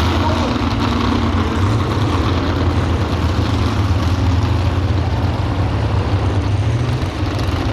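Pro stock pulling truck's engine running steadily at low revs, a constant low rumble with no revving.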